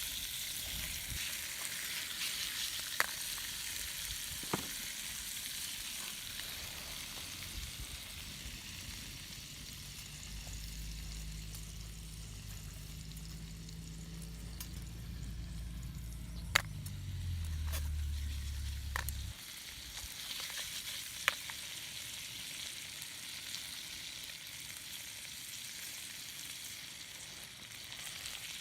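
Sizzling over a small wood fire: a steady hiss with a sharp pop now and then. A low drone joins about ten seconds in and cuts off suddenly after about nine seconds.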